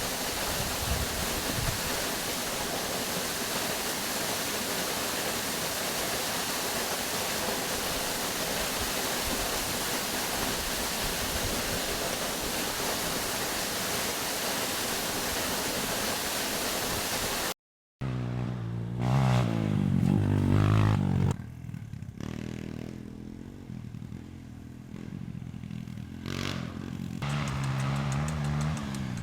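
Steady rush of a waterfall. After a sudden cut about two-thirds of the way in, a dirt bike engine runs and revs, loudest just after the cut, quieter for a few seconds, then rising again near the end.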